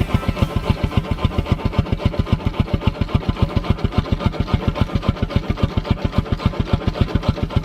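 Stationary steam engine running at speed, with a fast, even beat of about eight strokes a second.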